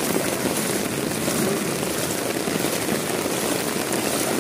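Torrential rain pouring onto a flooded street, a steady, dense rushing noise.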